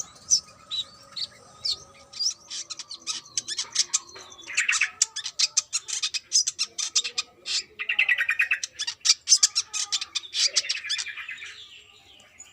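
Brown-throated sunbird (kolibri kelapa) singing a fast, unbroken run of high, sharp chirps and rattling trills. It tails off near the end.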